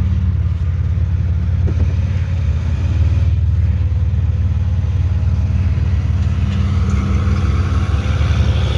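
Truck engine running at low speed with a steady low hum.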